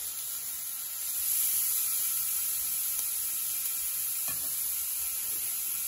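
Salmon steaks sizzling on a hot ridged griddle pan, a steady frying hiss. A faint knock about four seconds in.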